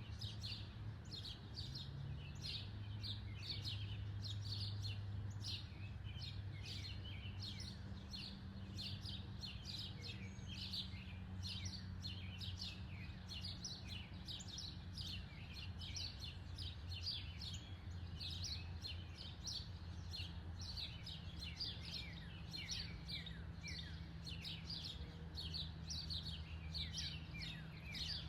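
Small birds chirping continuously, many short quick downward chirps several a second, over a low steady hum.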